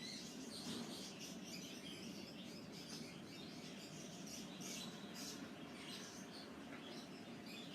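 Small birds chirping: many short, high chirps overlapping throughout, over a steady low background hum.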